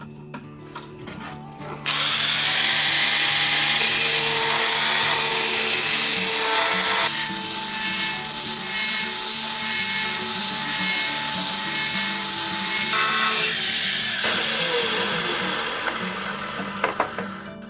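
An electric power tool starts suddenly about two seconds in and runs loud and steady against the work, then tails off and winds down near the end.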